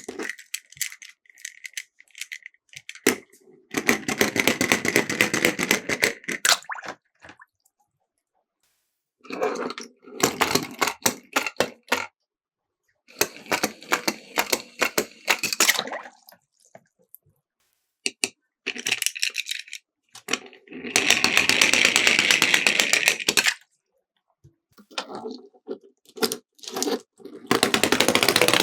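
Miniature toy cars rattling and clattering as they roll down a slope, in five bursts of dense rapid clicks two to four seconds long, with silent gaps between them.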